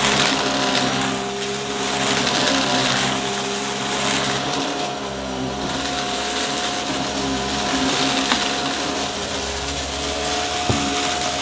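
Upright vacuum cleaner running steadily, its motor whine holding a constant pitch, with a crunchy crackle of debris being picked up. There are a couple of sharp clicks in the last few seconds.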